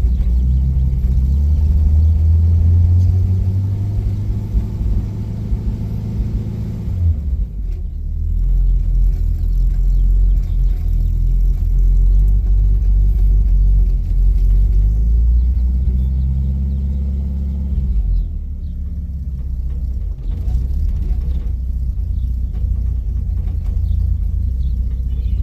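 1951 Packard 200's 288 cu in straight-eight engine running steadily on a cold start, its first start in a year. The note changes about seven seconds in and again around eighteen seconds in.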